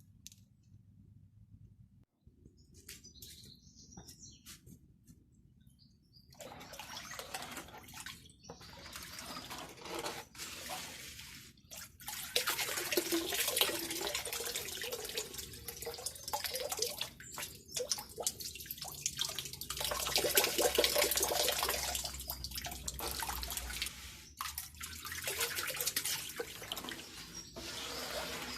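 Running water, starting about six seconds in and breaking off and starting again several times, with a few light clicks before it.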